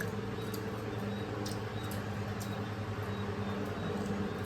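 Steady low hum of room background, with a few faint clicks.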